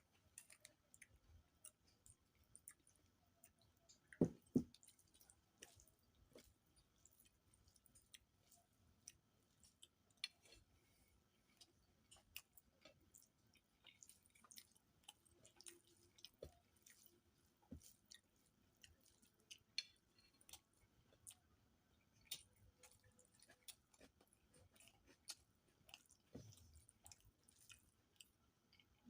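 Close-up eating sounds of a meal of fish curry and rice: faint, scattered wet clicks and squishes of chewing, with a pair of louder knocks about four seconds in.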